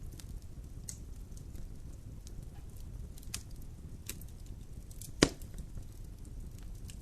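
Wood fire burning in a fireplace: a steady low rumble with scattered crackles and one loud pop about five seconds in.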